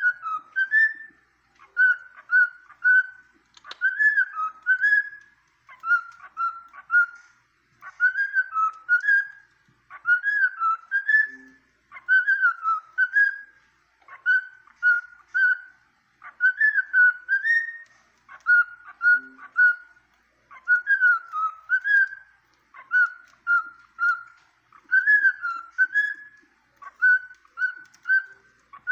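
Cockatiel whistling a short tune over and over, a phrase about every two seconds, alternating three short even notes with a swooping phrase that dips and rises.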